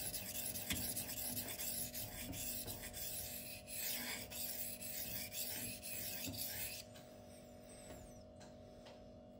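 Steel knife blade, the M390 edge of a Twosun TS264 folding knife, stroked back and forth over a Shapton water stone with a gritty scraping, to raise a burr at the apex. The strokes stop about seven seconds in.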